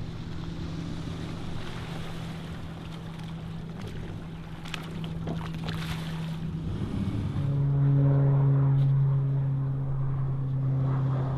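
Motorboat engine running steadily, with wind and water noise. About two-thirds of the way through, its note drops lower and gets louder.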